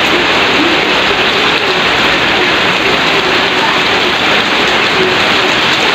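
Heavy rain falling steadily onto standing floodwater and the surfaces around it, an even hiss without letup.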